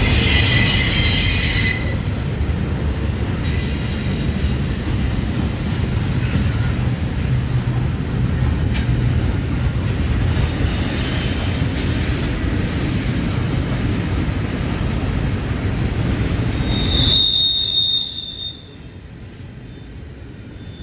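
Double-stack intermodal freight train rolling past on a curve: a heavy, steady rumble of steel wheels on the rails, with high squeal from the wheels rubbing the rail through the curve, loudest in the first two seconds. About eighteen seconds in the rumble drops away sharply, leaving a thin, steady high squeal tone.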